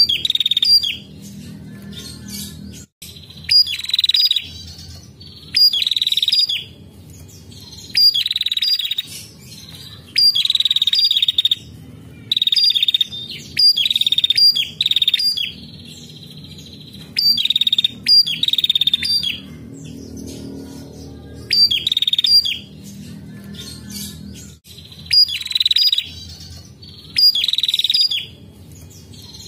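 Female prenjak calling over and over, about one phrase every two seconds. Each phrase is a sharp high note followed by a short, rapid buzzy trill.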